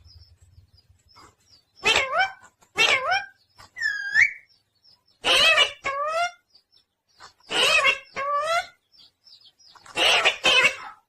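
Pet parrot calling: a series of short squawking calls with bending pitch, mostly in pairs a second or two apart.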